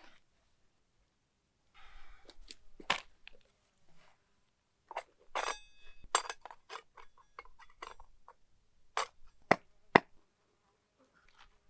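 A series of sharp knocks and metallic clinks at uneven intervals. One clink about five and a half seconds in rings briefly, and two of the loudest knocks come near the nine- and ten-second marks.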